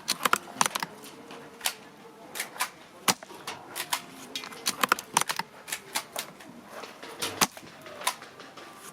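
Airsoft shooting at an outdoor range: an irregular clatter of sharp clicks and snaps, several a second, with a few louder cracks among them, from spring-powered airsoft rifle shots and bolt and mechanism clicks.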